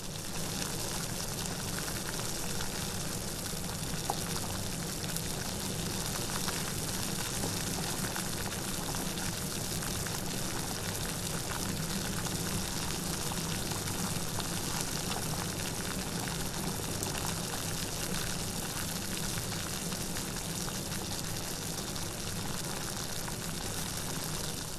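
Rain falling steadily: an even, unbroken hiss with one small tap about four seconds in.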